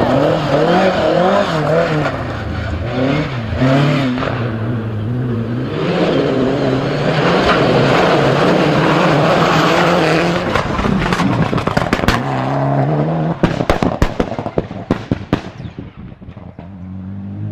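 Rally car engine revving hard, its pitch climbing and dropping through gear changes. From about 13 seconds in comes a rapid run of sharp cracks and pops, typical of exhaust backfires on the overrun, which thin out as the car moves away.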